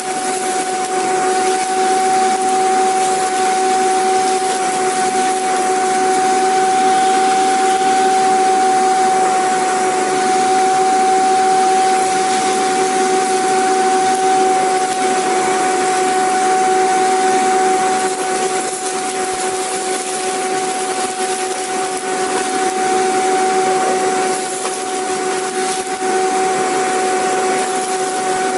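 Vacuum cleaner running steadily: a constant rush of air with a steady motor whine.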